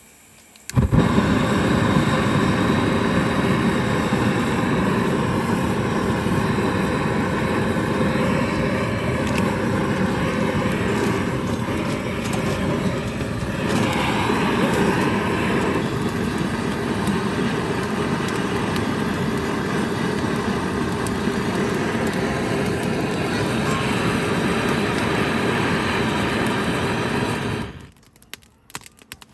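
Steady vehicle road noise that starts suddenly about a second in and cuts off near the end.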